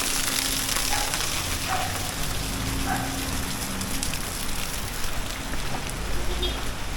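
Steady rain falling on a city street, an even hiss, with a low rumble underneath from about four seconds in.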